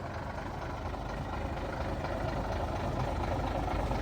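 Diesel engine of an International 4900 dump truck idling steadily, growing gradually louder.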